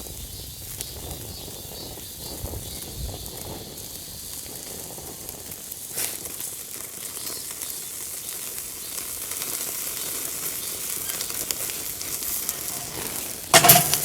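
Pork ribs sizzling on a camp grill, a steady hiss that slowly grows louder, with a single sharp clack near the end.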